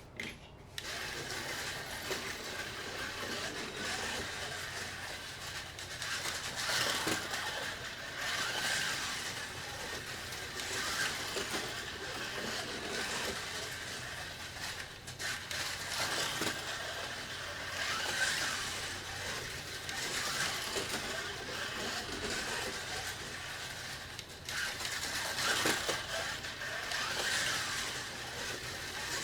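A 1:25 scale slot car's small electric motor and gears whining as it laps the track, starting up about a second in. The sound swells and fades every two to three seconds as the car comes round past the microphone.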